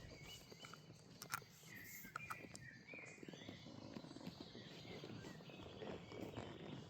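Birds singing faintly with short chirping phrases, over the soft, muffled steps of a horse walking on the forest floor.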